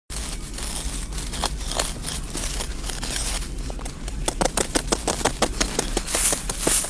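A run of sharp clicks and knocks over a scraping, rustling noise, the knocks coming quickly and close together for a second or so past the middle, with bursts of hiss near the end.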